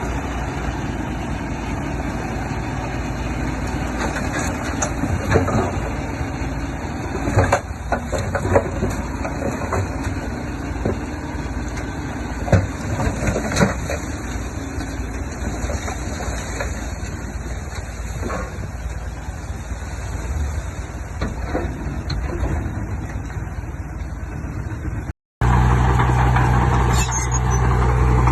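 Heavy earthmoving machinery's diesel engine running steadily, with scattered knocks and clanks, the sharpest between about a third and halfway through. After a brief dropout near the end, a louder, steady low engine hum.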